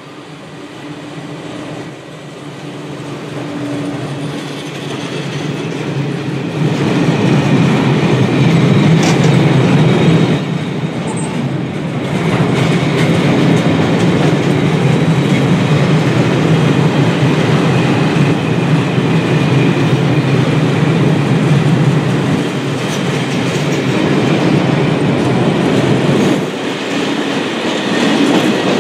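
VR Class Sr1 electric locomotive passing, then a long freight train of box wagons and tank cars rolling by: a steady rumble of wheels with clickety-clack. The sound grows louder over the first several seconds as the train draws near and then holds.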